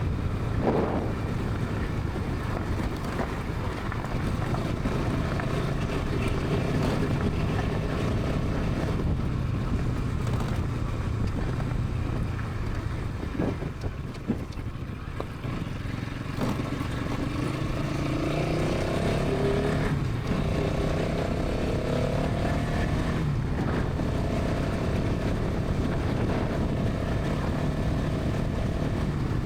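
Bajaj Pulsar NS 200's single-cylinder engine and exhaust running steadily at highway speed. Around the middle it eases off briefly, then its pitch rises as it accelerates, and it settles back to a steady run.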